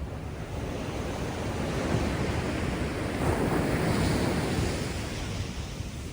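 Rough post-typhoon surf: a heavy wave breaks and washes up, the wash swelling to its loudest about three to four seconds in and then falling away.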